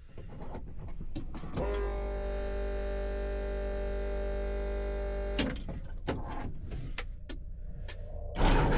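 Inside a Robinson R44 helicopter cockpit: a few sharp clicks, then a steady electric whine for about four seconds that stops suddenly, more clicks, and near the end a sudden much louder rushing rumble sets in.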